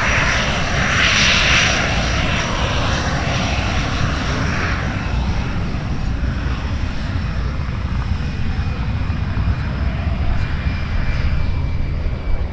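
MiG-17 Fresco jet fighter's turbojet engine passing on a low flyby, a loud rushing roar that is strongest in the first couple of seconds and then slowly fades as the jet draws away.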